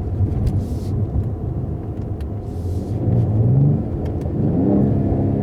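Mercedes-AMG GT43 4-Door Coupé's turbocharged inline-six pulling under acceleration over low road rumble. The engine note rises about three seconds in, dips briefly, then runs on at a steady higher pitch.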